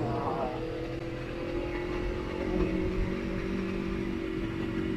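Motorcycle engine running steadily under way, its note easing slightly in the first couple of seconds and then holding even.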